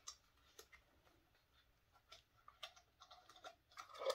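Faint, scattered small clicks and light handling noises, with a little more rustling near the end.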